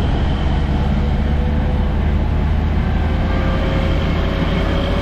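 A vehicle running steadily on the road: a continuous engine drone with a deep rumble of road noise, and a faint tone that slowly creeps up in pitch.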